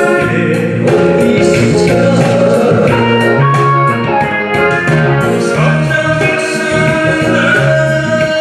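Korean trot song sung live by a solo singer over instrumental accompaniment, with held notes and a steady beat.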